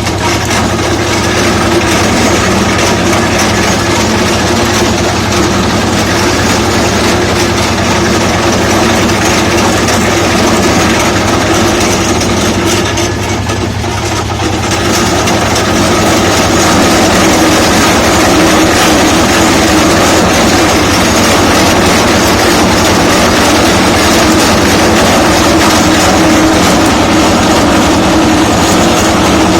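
Diesel-driven grooved-roller sugarcane crushing mill running steadily with a loud engine drone. The sound dips briefly about halfway through, then comes back a little louder.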